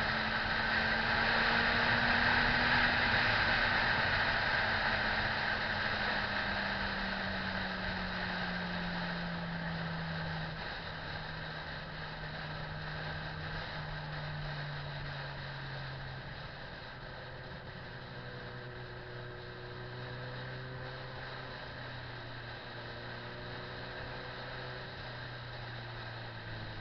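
Motorcycle engine running under a steady hiss of wind and road noise. The engine note falls slowly in pitch and the overall sound grows quieter, as the bike eases off and slows.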